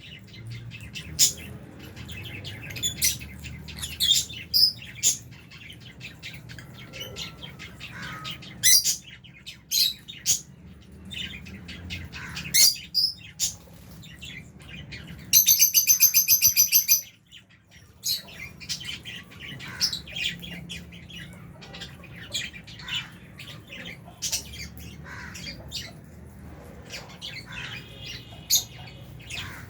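A flock of lovebirds in an aviary chirping, with many short, sharp, high calls. About halfway through comes a much louder, rapid buzzing call lasting under two seconds.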